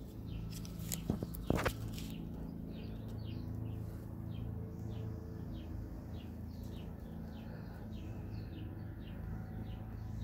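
A bird chirping over and over in short falling notes, about three a second, over a steady low hum. A couple of sharp knocks come about a second in.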